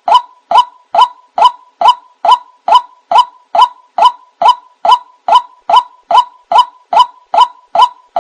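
White-breasted waterhen call, repeated as a lure: a short, even note around 1 kHz, given about two and a half times a second in a steady, unbroken series.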